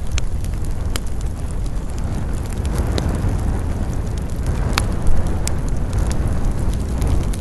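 Wood campfire crackling, with scattered sharp pops, the loudest just under five seconds in, over a steady low rush of wind.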